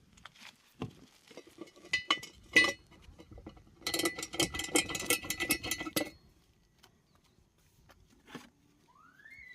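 Two sharp metal knocks, then about two seconds of rapid, ringing metallic clicking or rattling from tools on the truck wheel. Near the end comes a short rising-then-falling whistle-like tone.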